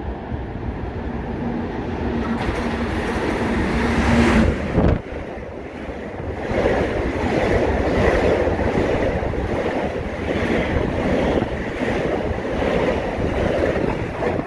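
A Long Island Rail Road M7 electric multiple-unit train runs past at speed close to the platform: a steady rush of wheels on rail and wind. As the train nears it builds in loudness, with a steady low tone for a few seconds. Once the cars are going by, the noise swells and fades in a regular rhythm about once a second.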